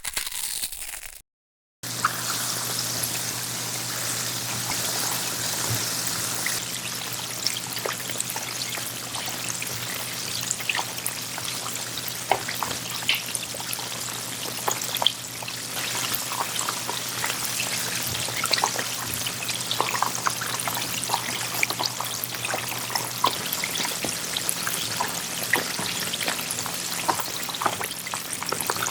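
Chicken pieces deep-frying in hot oil: a continuous crackling sizzle with many small sharp pops. A steady low hum runs underneath and stops a few seconds before the end.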